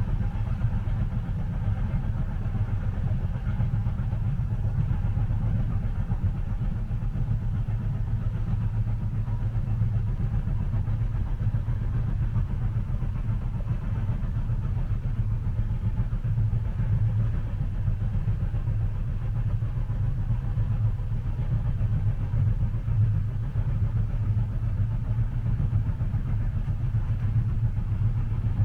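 Steady low rumble of a moving train heard from inside the passenger carriage, with no distinct clicks from the rail joints.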